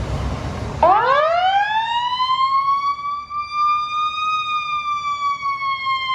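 A fire truck's siren wailing. It winds up from a low pitch to a high one over about three seconds, then slowly falls away, after about a second of road and engine noise that cuts off abruptly.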